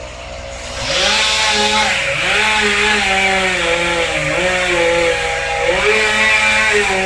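Chainsaw revving up about a second in and cutting wood, its pitch dipping and recovering several times as it works through the cut.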